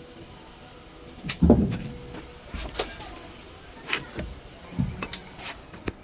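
A series of separate sharp knocks and clanks, the loudest about a second and a half in and four or five lighter ones after it, from tools and metal parts being handled during an engine teardown.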